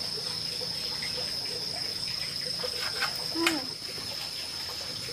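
Insects chirring in one steady high-pitched drone, with a brief short sound and a click or two about three and a half seconds in.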